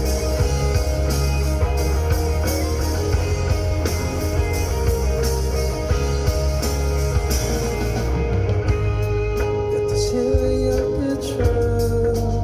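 Live rock band playing a song with drums, bass, electric guitars and keyboard, with no sung words. About eight seconds in, the cymbal wash drops out and the guitars and keys carry on ringing.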